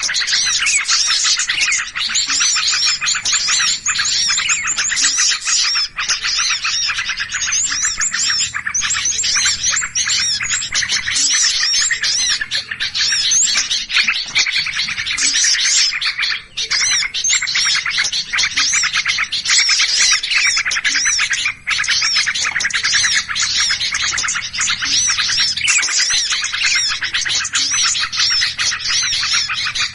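Dense, continuous chorus of many small birds chirping and calling in agitation, a bird-lure (pikat) recording meant to draw birds in. A faint low hum sits underneath at times.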